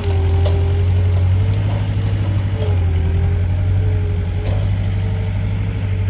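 Skid steer loader's engine running steadily, a deep drone with a fainter whine above it that wavers up and down in pitch.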